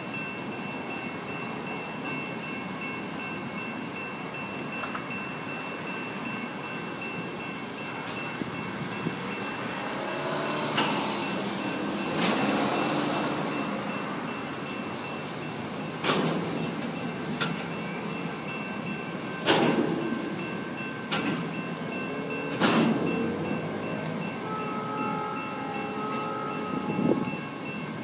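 Wisconsin and Southern freight cars rolling through a road crossing with a steady rumble, swelling about halfway through, then several sharp clanks in the second half.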